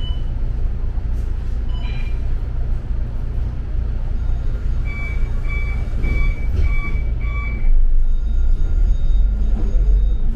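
Steady engine and road rumble of a double-decker bus, heard from inside. Around the middle, five short, high electronic beeps about two a second. Near the end the rumble gets louder.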